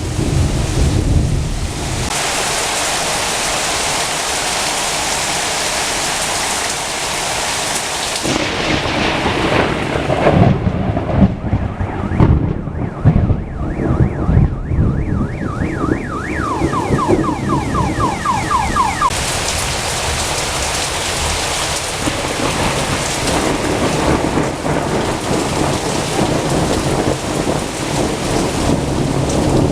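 Heavy rain hissing through a thunderstorm, with thunder from a close lightning strike rumbling and cracking, heaviest around the middle. Just after the loudest thunder comes a brief run of rapid, repeated electronic chirps.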